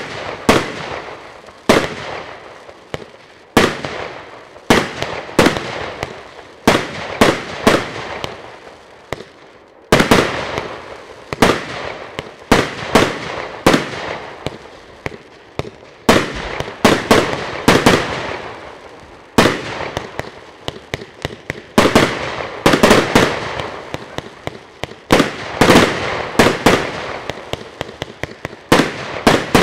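48-shot consumer fireworks cake firing shot after shot: sharp bangs of launches and bursts, one to three a second, each trailing off, with a few brief lulls between volleys.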